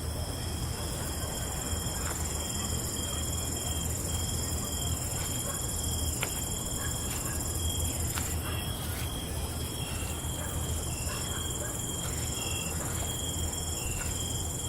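Night insects, crickets among them, trilling steadily at several pitches, some in short repeated pulses, over a deep steady hum.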